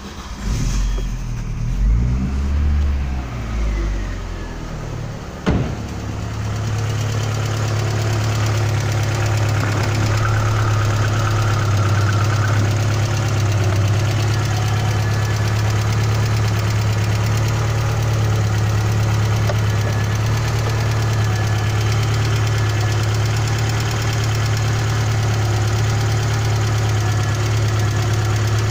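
Audi 80 B3's 2.0-litre 3A four-cylinder petrol engine starting up, its speed wavering for the first few seconds. A single sharp click comes about five and a half seconds in, and the engine then settles into a steady idle.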